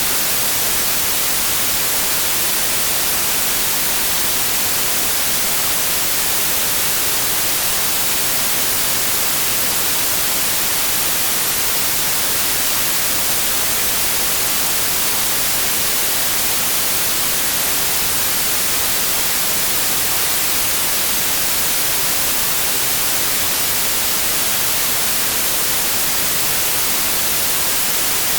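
Steady synthetic white noise: an even, unchanging hiss across all pitches, brightest at the top, with no tones or events.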